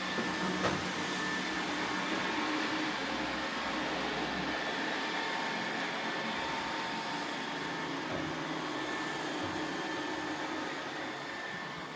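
iRobot Roomba robot vacuum running steadily, a continuous whir of its motor and brushes with a faint high tone, with a small click about a second in.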